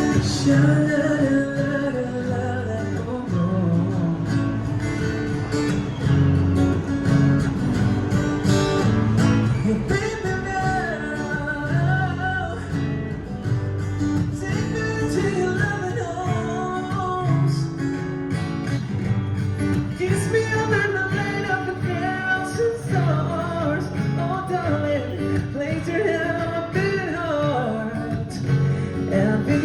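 Acoustic guitar playing continuously: a strummed accompaniment with a wavering melody line carried over it.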